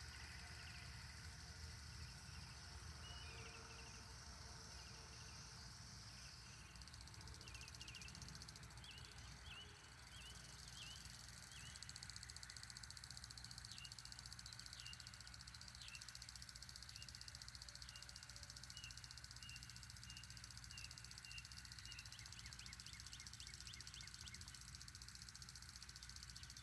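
Faint outdoor ambience with a bird's short chirps repeating, some in even runs about twice a second.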